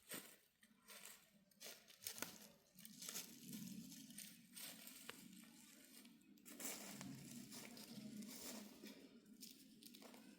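Faint, irregular rustling and crackling, as of something being handled, torn or crumpled close by. A faint low hum joins it about three seconds in.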